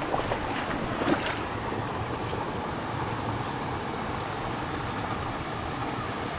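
Steady rush of flowing water in a shallow mountain stream, with a few small knocks about a second in.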